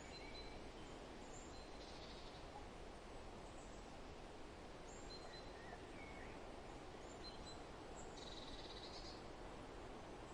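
Forest ambience: a faint, steady rush of wind with scattered short, high songbird chirps and a rapid trill about eight seconds in.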